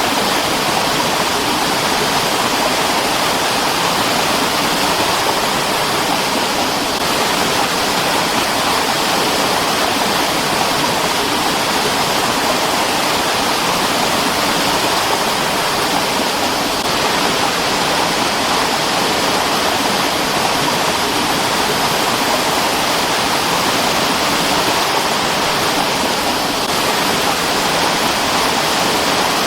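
Mountain stream flowing, a steady, even sound of running water.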